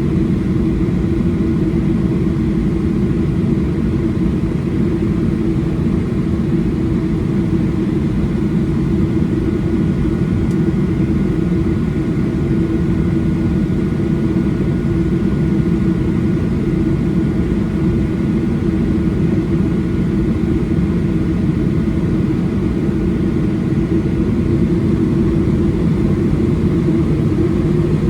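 Steady cabin noise inside a Boeing 737-800: a constant roar of its CFM56-7B jet engines and the airflow, with a faint steady hum running through it.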